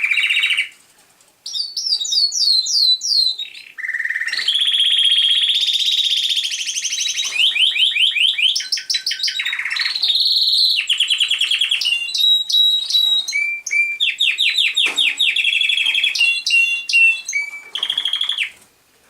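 Male American Singer canary singing a long song of rapid trills and rolls, high-pitched, switching to a new repeated phrase every second or two.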